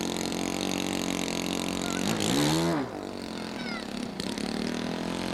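Small model airplane engine running steadily, with its pitch rising and falling briefly about two seconds in.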